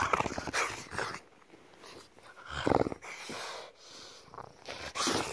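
English bulldog making throaty, grumbling vocal noises in three bursts: a longer one at the start, a short one a little past halfway, and another near the end.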